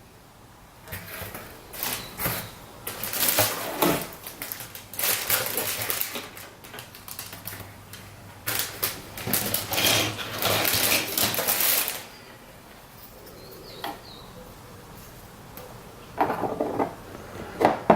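Resin and white-metal model kit parts handled and fitted together by hand: rustling with light clicking and clinking for about twelve seconds, then quieter, with a few more clicks near the end.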